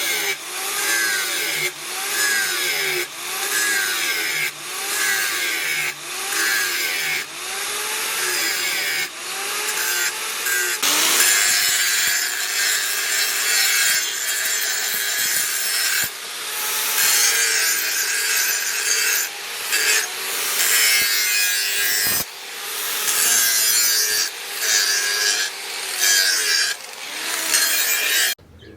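A hand tool scraping back and forth in regular strokes, about one a second, with a ringing tone that rises and falls through each stroke. Around eleven seconds in the strokes run together for several seconds, then the regular strokes resume until they stop just before the end.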